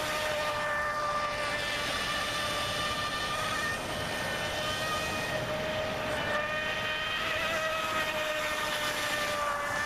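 Radio-controlled boat's brushless electric motor driving a Kyosho Dolphin outboard through its flex shaft at speed: a steady high whine that wavers slightly in pitch.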